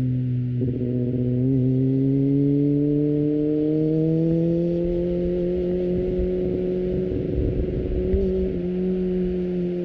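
Kawasaki ZX-25R's 250 cc inline-four engine through an Akrapovic exhaust, heard onboard while riding. The engine note breaks briefly about half a second in, climbs slowly in pitch over a couple of seconds, then holds steady, with light wind noise underneath.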